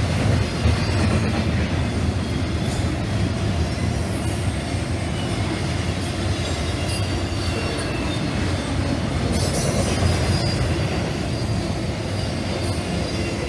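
Double-stack intermodal freight cars rolling past at track side: a steady, loud rumble of steel wheels on rail, with faint high wheel squeals coming and going and a few sharp clicks.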